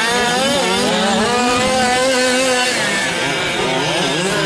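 Small two-stroke gas engines of several 1/5-scale RC race trucks running together, their pitch rising and falling as they throttle on and off.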